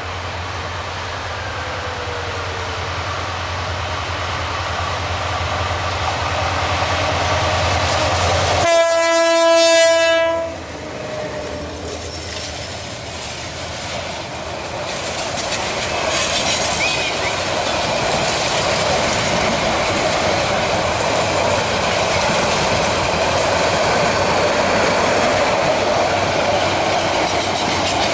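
Rangpur Express passenger train approaching and passing at speed. The sound builds over the first several seconds, and the locomotive's horn gives one long blast about nine seconds in. Then the coaches rush by with steady wheel clatter over the rail joints.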